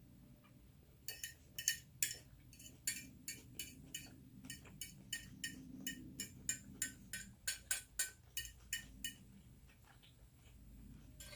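Eating sounds during a meal: a run of sharp, fairly even clicks, about three a second, lasting several seconds, then a pause and a single louder clink at the very end.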